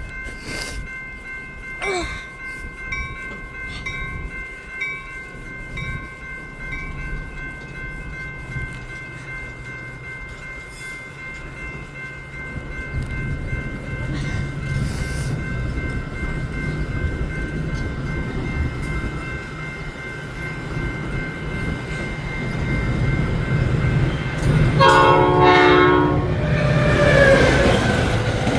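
Metra express commuter train approaching: its rumble builds over the second half, the locomotive horn sounds a loud blast about 25 seconds in, and a gliding high squeal follows as it nears.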